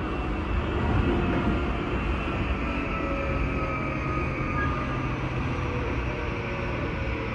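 Tokyu 2020 series electric train running at speed, heard from inside the passenger car: steady wheel-and-rail rumble, with the faint whine of its Mitsubishi full-SiC MOSFET VVVF inverter and traction motors slowly falling in pitch.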